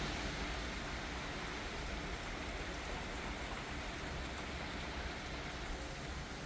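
Steady thunderstorm rain falling, an even hiss with no thunder.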